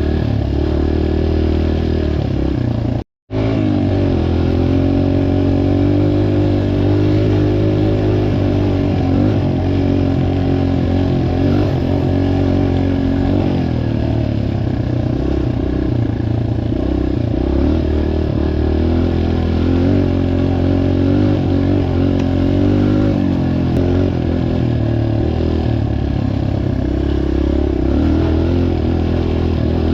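Dirt bike engines running, their pitch wavering up and down, with a brief dropout to silence about three seconds in.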